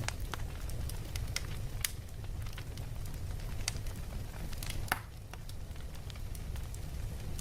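Fire crackling: irregular small pops and snaps over a steady low rumble, with a louder pop about five seconds in.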